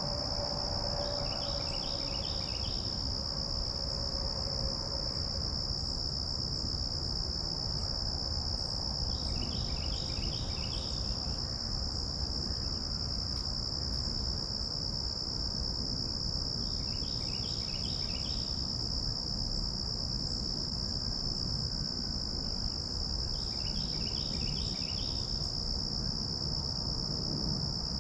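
A steady insect chorus makes a continuous high, even buzz, while a songbird repeats a short phrase of quick notes four times, about every eight seconds, over a low rumble.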